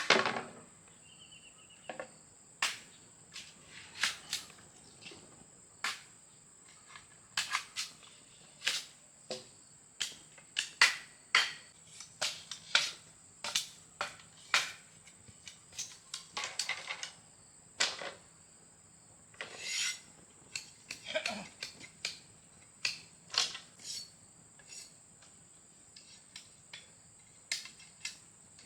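Irregular light clicks and knocks, a few to several a second with short gaps, over a steady high-pitched insect drone.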